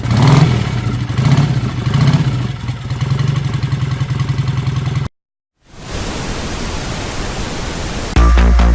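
Motorcycle engine running and revving, swelling about three times in the first few seconds, then cutting off. After a short silence a steady hiss of noise follows, and a loud bass-heavy music beat starts near the end.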